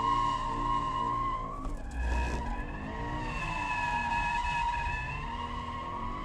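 Toyota GT86's flat-four engine held at high revs while the tyres squeal steadily in a drift. The squeal breaks off for about a second, two seconds in, with a low thud, then starts again.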